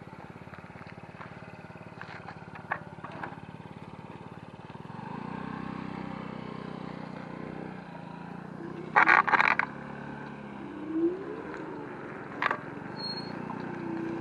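Electric scooter riding along with a steady hum of motor, wind and road noise. From about five seconds in a low engine hum grows louder, and a little after nine seconds comes a short, loud burst of several sharp sounds.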